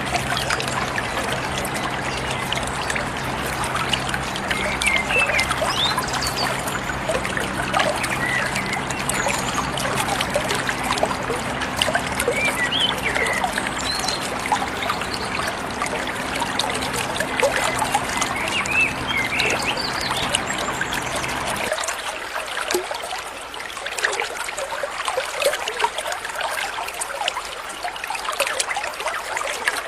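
Running water trickling steadily, with small birds chirping and giving short whistled notes over it. A low steady hum runs underneath and cuts off about three-quarters of the way through.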